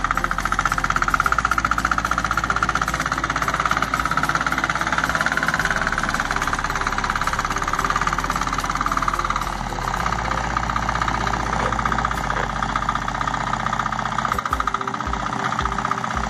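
Engine of a homemade 4x4 mini tractor running steadily with a fast, even firing beat while pulling a plow.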